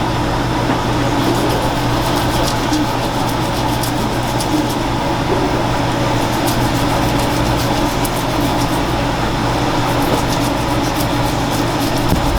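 Steady mechanical hum of kitchen equipment, with frequent light clicks and scrapes of knife work on the fish at the cutting board, coming in clusters with short pauses.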